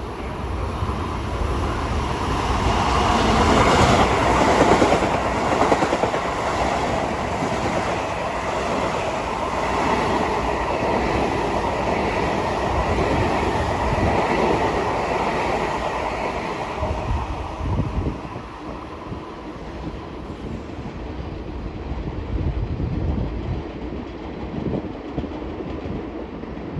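Long Island Rail Road train passing at speed, loudest about four to five seconds in, then fading after about sixteen seconds to a lower rumble.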